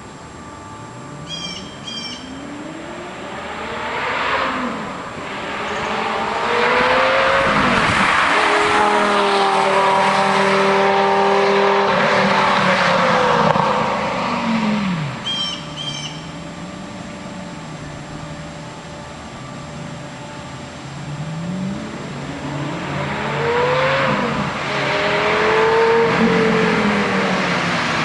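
Lamborghini Gallardo V10 with a Fabspeed Supersport exhaust and X-pipe accelerating hard past, its pitch climbing, then dropping as it goes by and fading. A second pass builds near the end. Birds chirp briefly twice.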